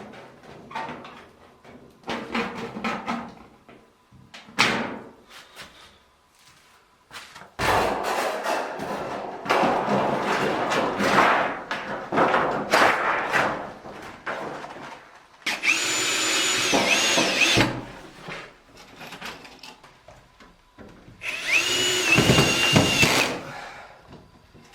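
Work on aerated concrete blocks: scattered knocks and scrapes, then a long stretch of dense rasping like sawing through a block. A power tool's motor then runs in two bursts of about two seconds, each with a steady whine.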